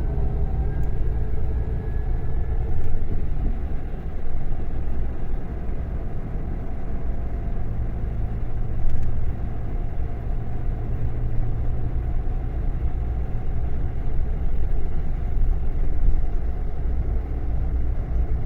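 Scania K400 bus diesel engine running steadily with a low rumble. A faint whine rises in pitch over the first few seconds.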